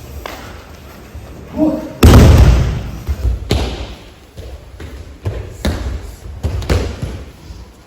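Bodies landing on tatami mats as aikido partners are thrown and take breakfalls: one heavy, loud slam about two seconds in, then several lighter thuds. A short voice is heard just before the big fall.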